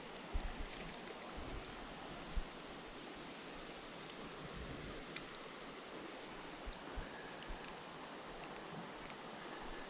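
Creek water running steadily, with a few soft low knocks.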